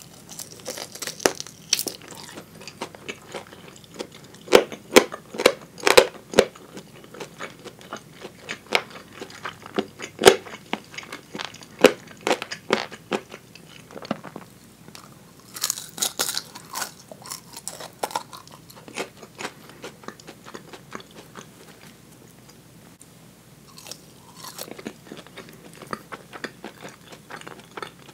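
A person biting into and chewing crispy fried chicken drumettes (tulip karaage) close to a clip-on microphone: a run of sharp crunches and wet chewing. The crunches are thickest in the first half, ease to softer chewing about two-thirds through, and a few more crunches come near the end.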